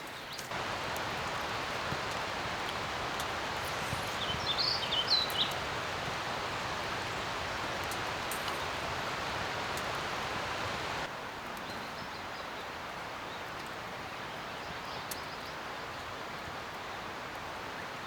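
Light rain falling steadily, an even hiss that drops a little in level about eleven seconds in. A short burst of high chirps about four to five seconds in.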